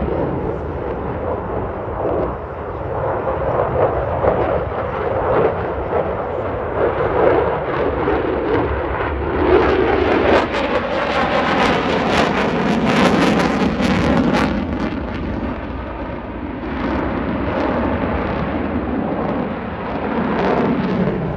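Lockheed Martin F-22 Raptor's twin Pratt & Whitney F119 afterburning turbofans in a demonstration pass, a loud sustained jet noise that swells to a harsh crackling rasp about halfway through, then eases.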